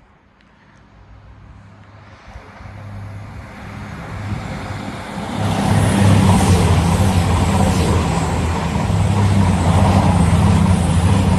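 Class 222 Meridian diesel express train approaching and passing at speed. Engine drone and wheel-on-rail noise build steadily over about five seconds, then stay loud.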